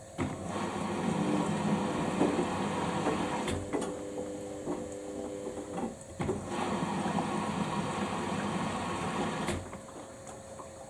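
Samsung washing machine's motor turning the drum during a quick wash, with a whine. It runs about six seconds, stops briefly, then runs about three seconds more before stopping.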